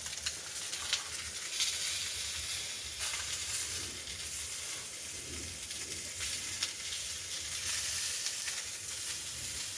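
Chicken frying in a pan, a steady sizzle with scattered pops and crackles.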